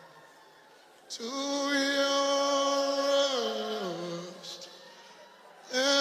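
A man singing unaccompanied in a slow, drawn-out chant. After a short hush, one long note is held, then steps down in pitch and fades. A new held note begins near the end.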